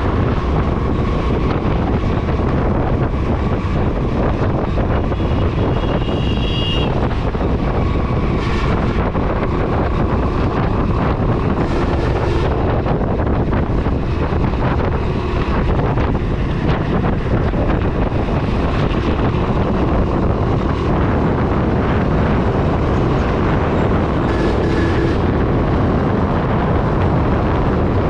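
Motorcycle running steadily while being ridden, with heavy wind buffeting on the microphone.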